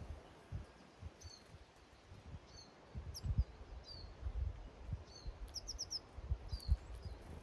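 Small garden songbirds calling with short high chirps, many dipping in pitch, about once a second, and a quick run of four notes about six seconds in. Low thuds and rumble sit underneath.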